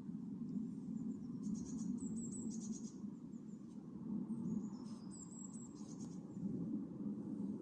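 Small songbirds singing high, thin phrases: quick trills and short falling notes, in a few bursts. A steady low rumble sits under them.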